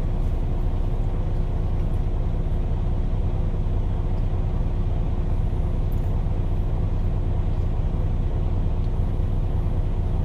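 Idling semi-truck diesel engine: a steady low rumble with a faint constant hum above it.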